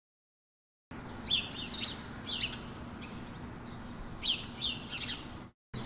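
Songbirds chirping in two clusters of quick, high, short chirps, starting about a second in, over a faint steady low hum.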